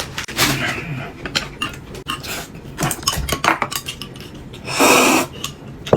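Dishes and eating utensils clinking and knocking at a meal table, with a brief louder noise about five seconds in.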